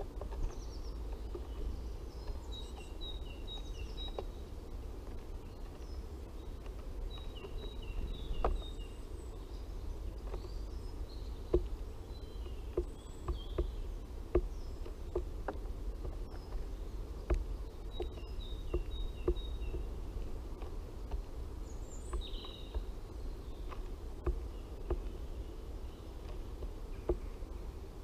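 Birds feeding on a seed-covered bird table: irregular sharp taps and clicks of beaks pecking at the seed, over a low steady rumble. Small woodland birds sing short runs of quickly repeated two-note phrases now and then.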